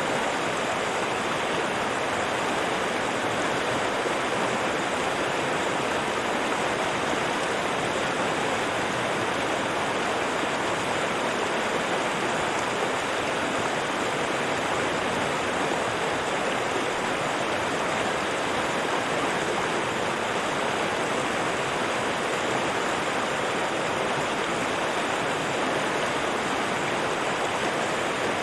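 River water rushing and babbling, a steady, even flow.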